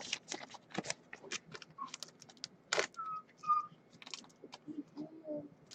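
Light clicks and rustles of trading cards and plastic card holders being handled, with a few short whistled chirps in the middle and a low coo near the end from a pet bird.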